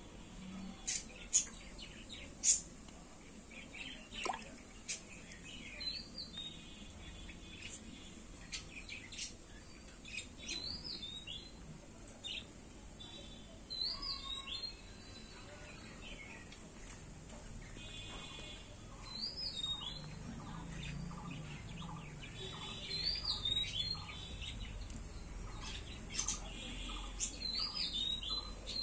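Birds chirping, with a short high call phrase repeated every four or five seconds and sharp single chirps in between.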